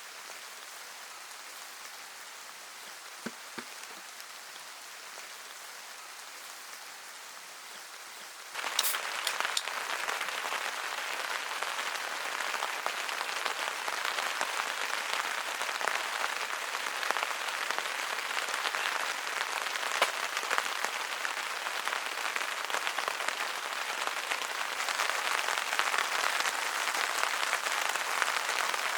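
Rain falling with a steady patter of drops, which turns abruptly much louder and denser about a third of the way in.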